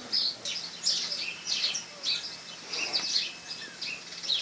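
Several small birds chirping and calling together, many short high notes overlapping in quick succession.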